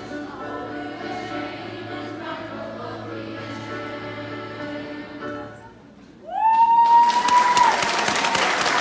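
A choir singing a gospel song, with held chords, which ends about five and a half seconds in. After a short lull, a single high cheer rises in pitch and is held for over a second, as loud audience applause and cheering break out and carry on.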